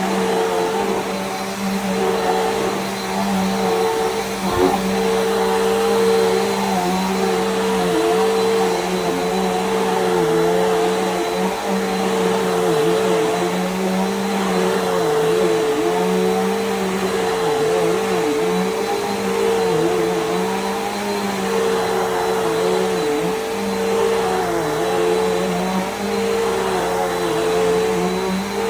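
Bissell PowerGroom bagless upright vacuum running steadily, a motor hum over airflow hiss whose pitch dips briefly every so often. There is one short knock about four and a half seconds in.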